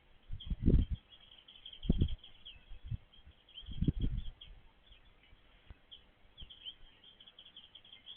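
Small birds chirping and twittering in a rapid string of short high notes. Three or four low rumbles, each about half a second long, come about one, two and four seconds in and are louder than the birds.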